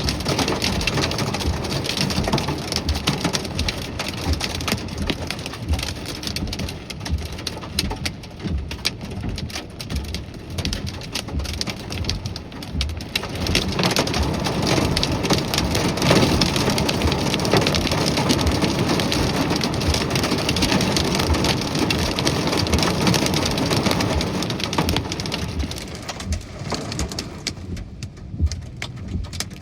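Heavy thunderstorm rain falling steadily. It grows heavier about halfway through and eases off near the end.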